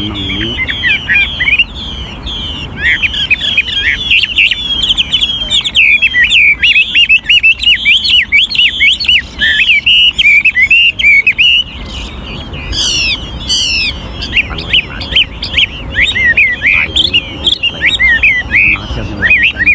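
Chinese hwamei, a seasoned wild-caught decoy bird, singing a fast, unbroken stream of rapidly changing whistled phrases, with a few higher sweeping notes around the middle.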